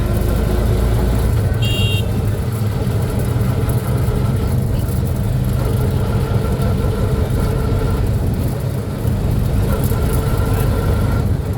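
A road vehicle driving along, with steady engine and road rumble. A short high-pitched beep comes about two seconds in.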